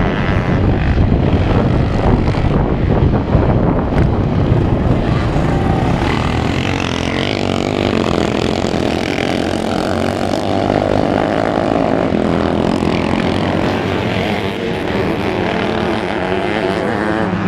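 Motocross motorcycle engines revving up and down as the bikes race around the track.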